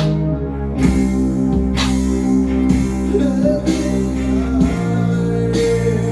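A band playing live in an acoustic, unplugged set: an acoustic guitar strums chords about once a second over held low bass notes, with a voice singing.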